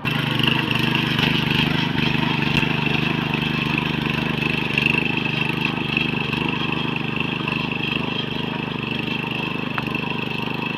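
Tractor engine running steadily, with a steady high whine over the low engine note.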